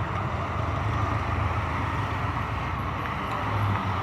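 Steady outdoor street noise: a continuous low rumble with a broad hiss over it, like road traffic.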